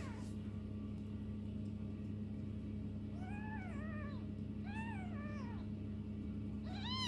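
Four-week-old kittens mewing: a few short, high mews, each rising then falling in pitch, starting about three seconds in, with one more near the end.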